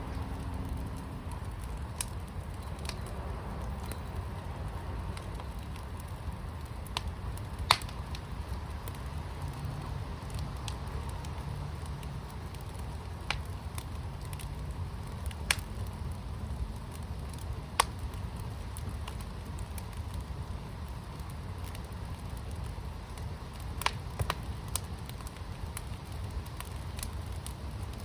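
Fire burning in a fire pit, with a steady low rumble and frequent sharp crackles and pops, a few of them clearly louder than the rest.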